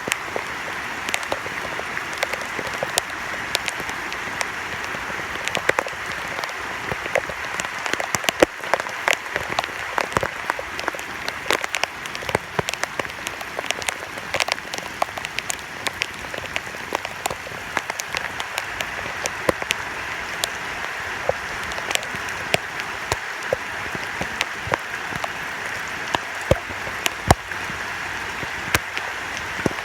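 Heavy rain: a steady hiss with many sharp drop hits close by, along with rainwater running down outdoor stairs.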